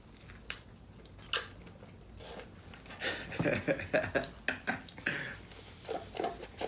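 People chewing food close to the microphone after a bite of a pita wrap. It is faint with a couple of small clicks at first, then a run of irregular chewing and mouth noises from about three seconds in.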